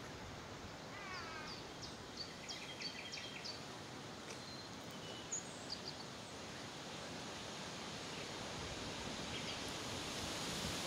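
Outdoor lakeside ambience: a steady background hiss that grows a little louder toward the end, with a bird singing a quick run of short chirps in the first few seconds and a few fainter chirps later.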